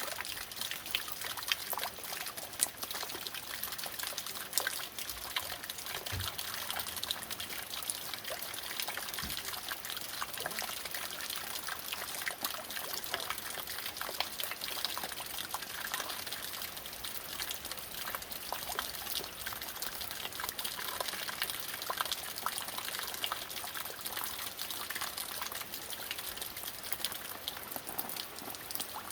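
Rain falling steadily, with water dripping and trickling from the eaves and many small drops pattering.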